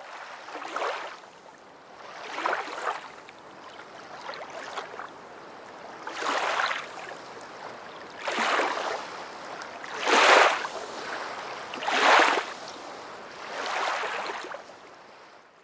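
Rushing water that swells and fades in surges about every two seconds, like waves washing in, with the strongest surges in the second half.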